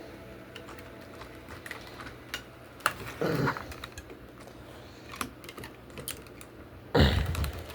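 Plastic toy packaging being handled as a figure is worked out of its tray: scattered sharp plastic clicks, with a louder rustle about three seconds in and another near the end.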